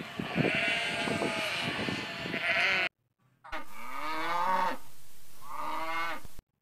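A flock of sheep bleating, many calls overlapping. After a short break, a cow lows twice in two long, drawn-out calls.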